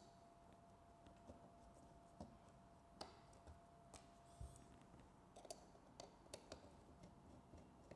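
Faint, irregular clicks and taps of small parts being handled, as a mini bird feeder camera is taken off its hook mount.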